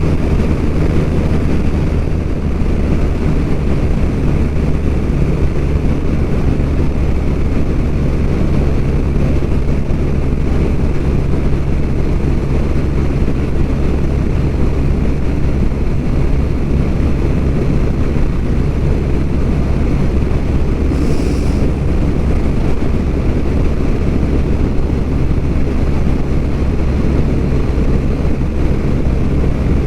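BMW R1200RT's boxer-twin engine running steadily while the motorcycle is under way, with wind and road noise over it.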